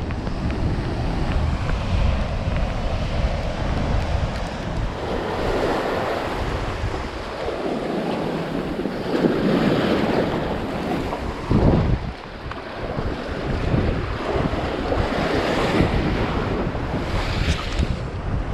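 Strong wind buffeting the microphone over rough surf breaking and washing on a rocky shore, with the rush of water swelling twice through the middle.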